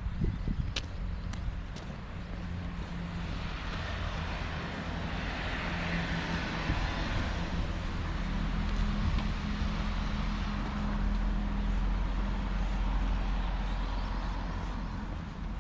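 Motor vehicle driving past: a steady engine hum with tyre noise that swells and then eases off, plus a heavy low rumble later on. A few footstep clicks sound near the start.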